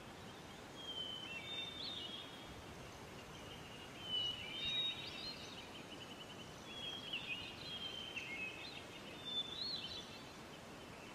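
A bird singing four phrases of high whistles and quick trills, a few seconds apart, over a faint steady background hiss.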